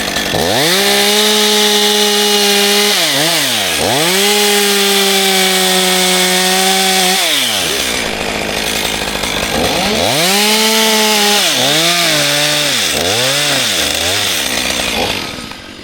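Two-stroke chainsaw held at full throttle in two long runs with a brief dip between, dropping to idle at about seven seconds. It revs high again around ten seconds, then gives a string of quick throttle blips before the level falls near the end.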